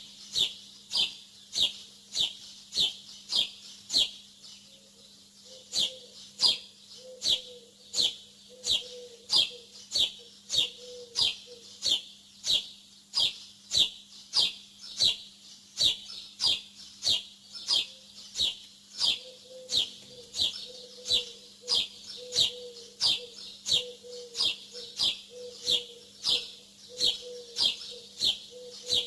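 A bird repeating one short, sharp, falling chirp about twice a second, pausing briefly about four seconds in, over a faint steady low hum.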